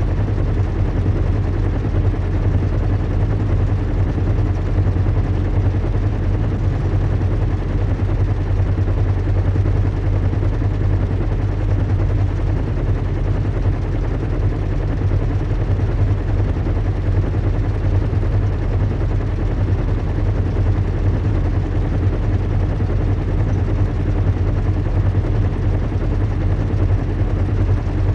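Recreated cabin ambience of a large airship in flight: the steady low hum and rumble of its engines under an even rushing noise, unchanging throughout.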